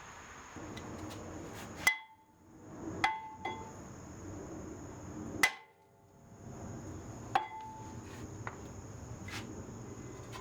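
Metal striking metal in a brake job: about five sharp clanks, irregularly spaced one to two seconds apart, each ringing briefly like struck steel.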